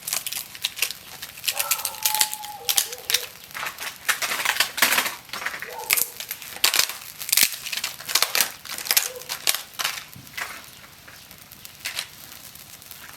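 Cooking preparation: rapid, irregular crisp clicks and crackles, like ingredients and utensils being handled, thinning out near the end.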